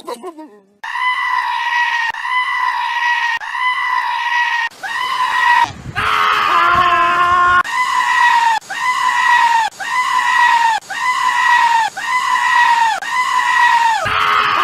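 A goat screaming, a fast string of high-pitched, nasal cries about one and a half a second, with one longer, lower cry near the middle.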